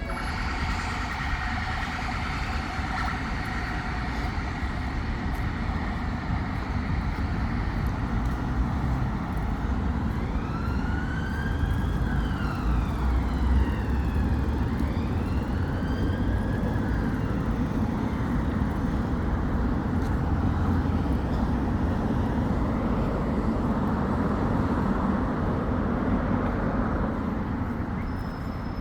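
Police car siren wailing in two slow rising-and-falling sweeps in the middle, over the steady rumble of road traffic.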